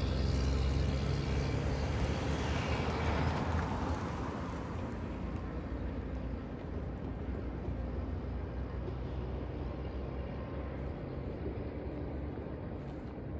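Freight train passing: a diesel locomotive's engine rumble is strong for the first few seconds, then fades and dulls as it moves away, leaving a quieter steady rolling rumble.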